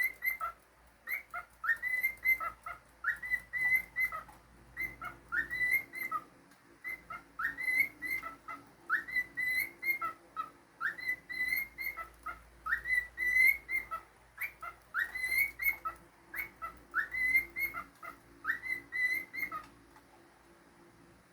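Cockatiel whistling a tune, a short phrase of rising notes repeated over and over, stopping near the end.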